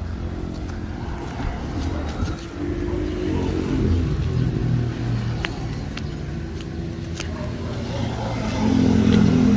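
Road traffic on a highway: engines of vehicles going past, with one growing louder near the end as it approaches.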